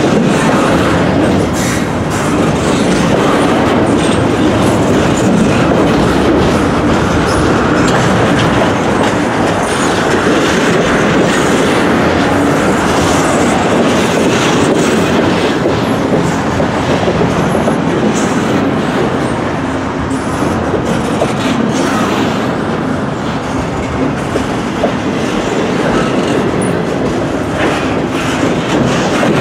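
Double-stack intermodal well cars of a long freight train rolling past close by: a loud, steady rumble of steel wheels on rail, with scattered clicks and clacks as the wheels cross the rail joints.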